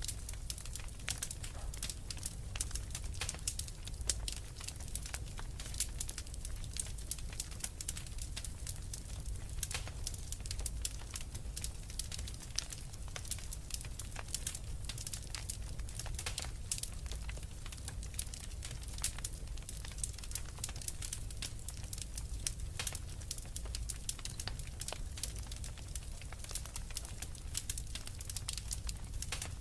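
Wood fire in a fireplace crackling, with many small, irregular pops and snaps over a steady low rumble.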